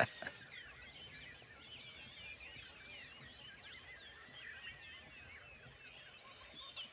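Dawn chorus of many birds: a dense scatter of short chirps and whistles from several birds at once, over a steady high-pitched drone.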